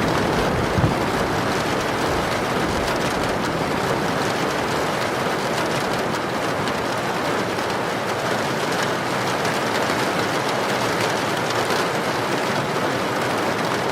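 Heavy rain pouring steadily with wind, a dense even hiss. A low rumble fades away in the first couple of seconds.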